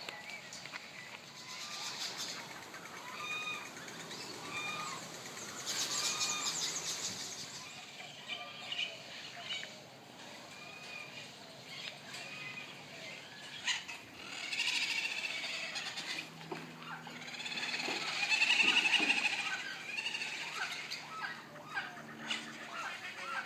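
Animal calls: short, repeated chirps throughout, with louder squealing calls in the second half and some light clicks and rustles.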